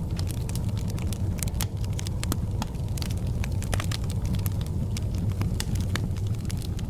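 Fire burning in a fireplace: many irregular sharp crackles and pops over a steady low roar.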